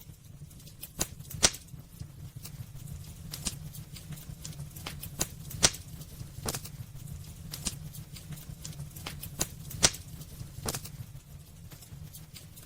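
Wood fire crackling in a fireplace: irregular sharp pops and snaps over a steady low rumble of burning, with the loudest snaps about a second and a half in, halfway through and near the ten-second mark.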